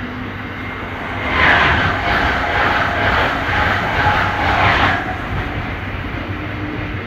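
A train running with a steady low rumble. About a second in, a louder rushing noise rises over it, swells and fades a few times over about four seconds, then drops away.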